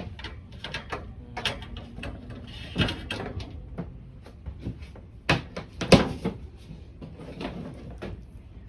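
Irregular knocks and clatter of things being handled and moved, with two louder thumps about five and six seconds in.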